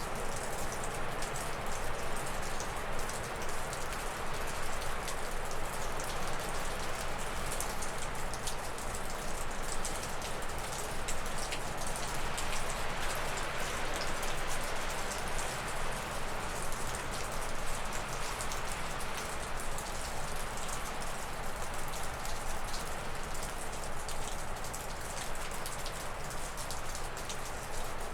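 Gusty wind rushing through spruce and birch trees, swelling about halfway through, with meltwater from thawing snow dripping steadily off a roof in quick, scattered drips.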